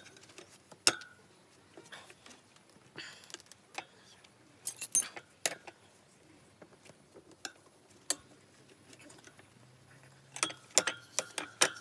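Metal tools and parts clinking and tapping sharply as they are handled, in scattered single knocks with a quick run of clinks near the end.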